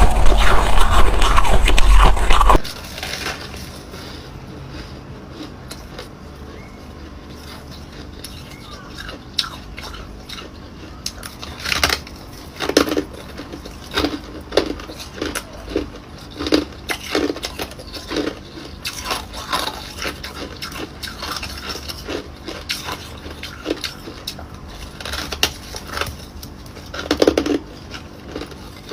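Ice being bitten and chewed close to the microphone. A loud, dense crunching with a heavy low rumble stops abruptly about two and a half seconds in, followed by a quieter stretch of scattered sharp cracks and crunches that bunch up in the middle and again near the end.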